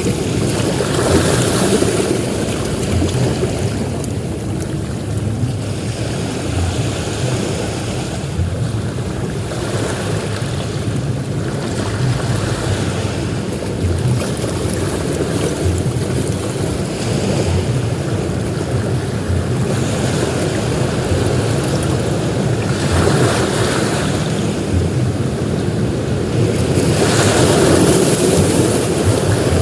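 Ocean surf breaking on a beach: a continuous rushing wash with a deep rumble underneath, swelling as bigger waves break about a second in, around the middle, and loudest near the end.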